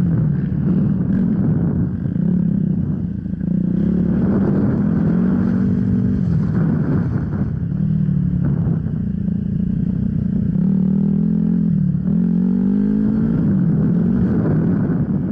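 Off-road motorcycle engine running under changing throttle, its pitch rising and falling over and over, with a brief drop in level about three seconds in.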